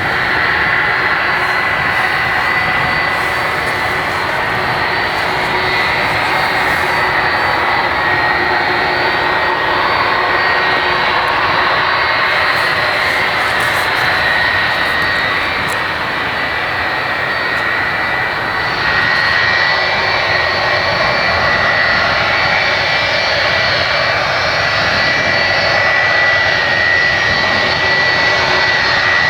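Boeing 757 jet engines running close by: a loud, steady roar with a thin high whine over it, growing slightly louder about two-thirds of the way through.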